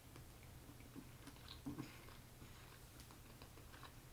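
Near silence with a few faint, scattered mouth clicks from soft chewing, over a low steady hum.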